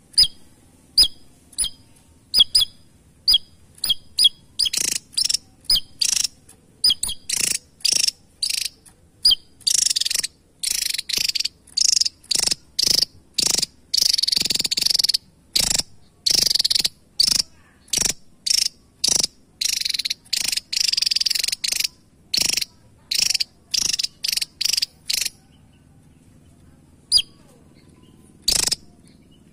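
Javan tesia calling: a rapid series of short, sharp high chips, breaking in the middle into longer harsh, rasping calls, then thinning out to two last chips near the end.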